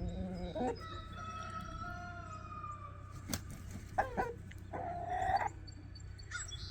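A young rooster crowing once in a long, drawn-out crow that falls slightly at the end. A few shorter harsh bird calls follow about four and five seconds in.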